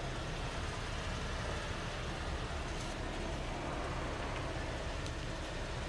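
Car engine idling, heard from inside the cabin as a steady low rumble with a hiss over it.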